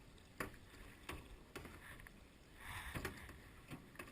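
Quiet canoe paddling: faint water noise with several sharp knocks, as of a paddle striking the canoe's hull or gunwale, and a short swish of a stroke about three seconds in.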